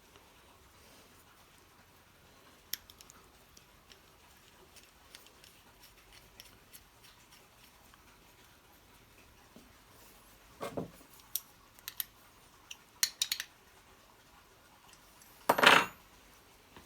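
Scattered small metallic clicks and clinks of carburettor parts and hand tools being handled and set down, in a group of clicks about two thirds of the way in and one louder clatter near the end.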